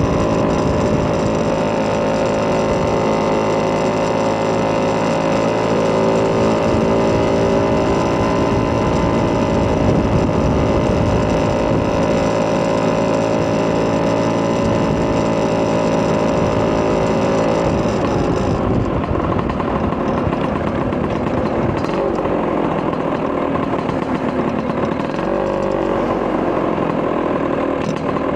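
Vespa PX200's single-cylinder two-stroke engine, bored out to 210cc with a Polini kit, running through a Malossi expansion-chamber exhaust at steady revs. About two-thirds of the way in the revs drop to a lower, wavering speed, with a few small rises in pitch near the end.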